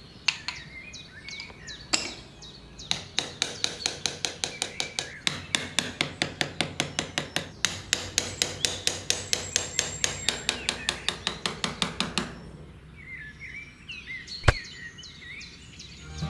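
A small wooden-handled hammer tapping pink stick posts down into sand. A few separate knocks come first, then a quick, even run of light taps, about five a second, that stops about twelve seconds in.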